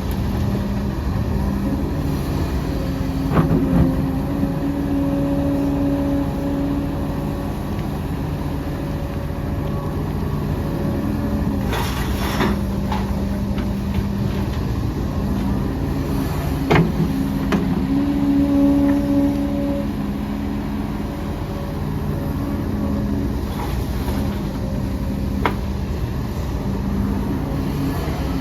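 Heavy diesel earthmoving machinery running, its engine note rising and falling a few times as the load changes, with several sharp knocks and clanks.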